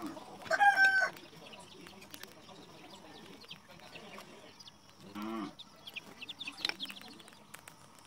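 A loud bird call with a stepped pitch about half a second in, then a shorter, lower call about five seconds in. Faint scattered clicks fall between them.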